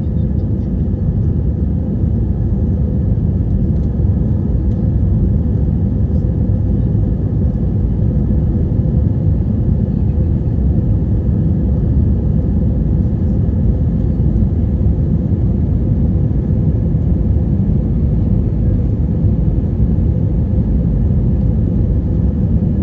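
Steady low rumble of jet airliner engines, unchanging in level.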